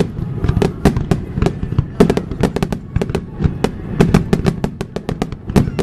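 Aerial fireworks bursting over the sea in a dense barrage: many sharp bangs and crackles a second, packed closely over a continuous low rumble of echoing explosions.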